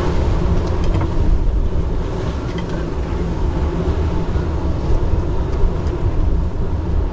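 Steady low rumble and rushing noise of a small sailing yacht underway in rough seas, with a few faint clicks.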